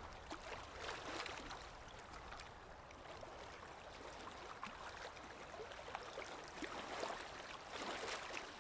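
Stream of water running and babbling, with uneven swells and small splashes.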